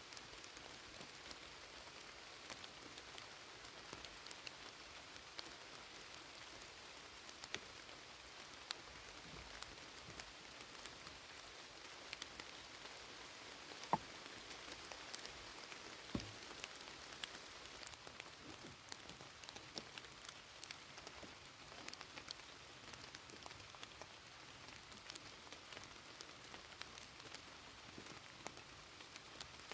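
Light rain falling steadily, with scattered drops ticking irregularly and one or two slightly louder drips or knocks along the way.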